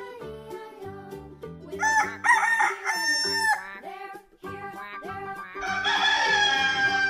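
Rooster crowing: a choppier call in the middle and a long call falling in pitch near the end, over light background children's music.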